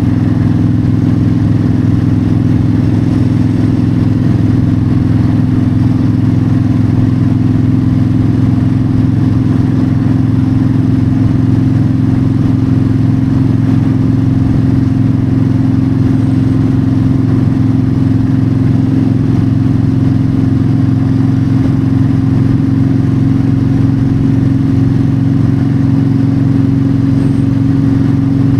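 Yamaha V-Star 1300's V-twin engine running steadily at a cruising speed on the highway, its pitch edging up slightly near the end.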